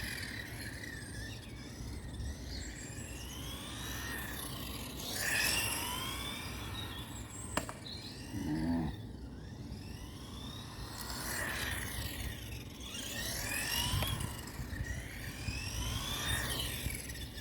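Electric drivetrain of a Carisma GT14 1/14-scale RC touring car whining up and down in pitch over and over as it accelerates and slows while being driven around. A single sharp click comes about seven and a half seconds in.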